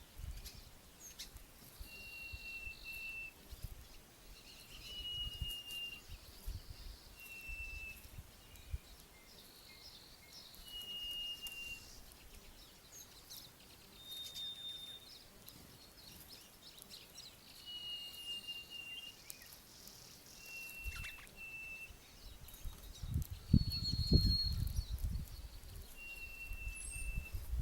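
A bird repeating short, level whistled notes about every second or two, each held briefly at a slightly different pitch. A low rumble comes up near the end.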